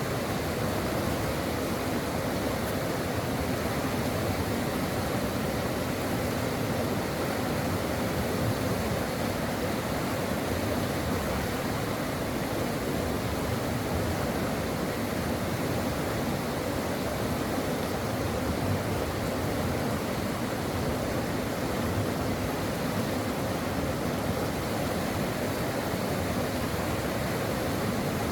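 A brook running over rocks: a steady rushing and burbling of water that keeps an even level throughout.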